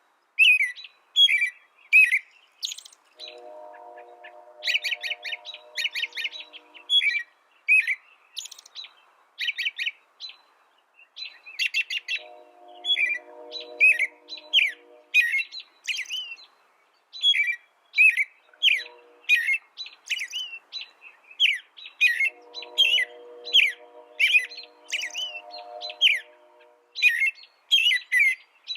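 A small songbird singing continuously: fast, varied chirps, twitters and short trills. A low, steady humming tone comes in underneath three times, each lasting a few seconds.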